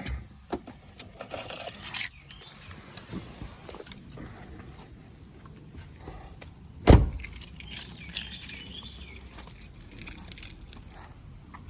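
Car keys jingling, then a car door shutting with one heavy thump about seven seconds in, followed by lighter rattling.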